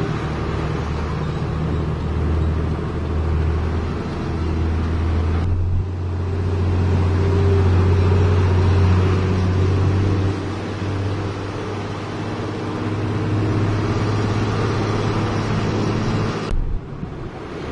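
Heavy diesel engine running steadily with a low drone, broken off abruptly twice.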